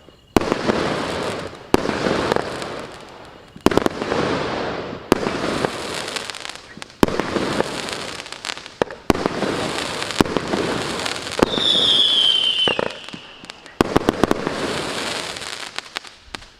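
Consumer fireworks battery (Maxsem EASTER MC118, 0.8–1 inch shells) firing shot after shot: sharp bangs every second or two, each followed by about a second of crackling. About twelve seconds in, a whistle falls in pitch for about a second.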